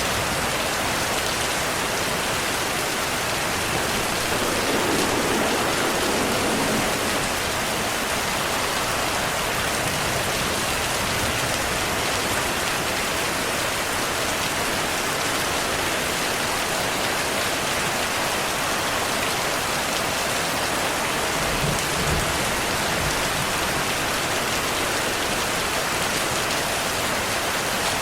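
Steady rain falling, a dense even hiss of drops. A low rumble of distant thunder swells a few seconds in and again a little past the middle.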